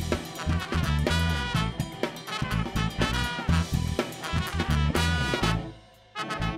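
Ska band playing an instrumental passage with horns and drums over a steady beat. About five and a half seconds in the band stops short for a moment, then comes straight back in.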